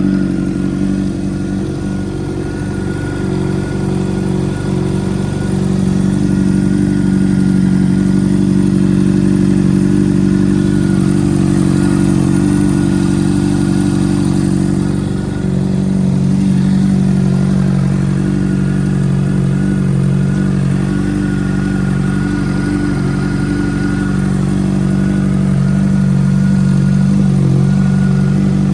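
2013 Honda CBR600RR's inline-four engine idling steadily through an aftermarket Toce exhaust, with a deep, even note and no revving.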